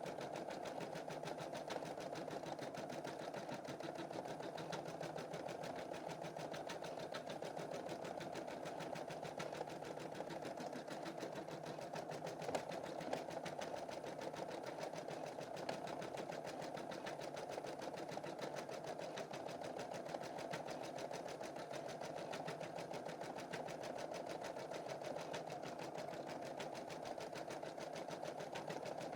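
Computerized embroidery machine stitching a design, its needle going up and down in a fast, even rhythm of rapid ticks.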